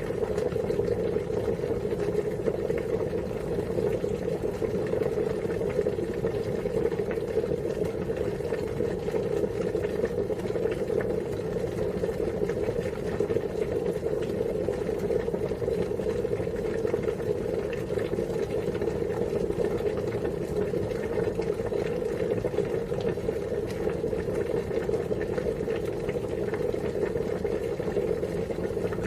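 Water at a rolling boil, a steady dense bubbling and rumbling with no let-up.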